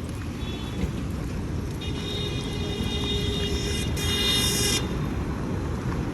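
Street traffic rumbling steadily, with a high-pitched steady tone held for about three seconds in the middle.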